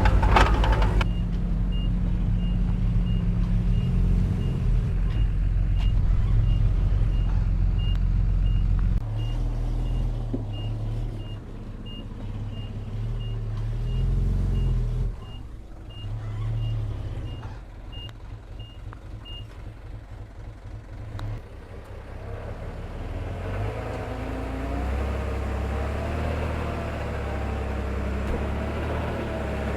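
Diesel engine of heavy construction machinery running, with a reversing alarm beeping about twice a second. The beeping stops about two-thirds of the way through, and the engine is louder in the first third.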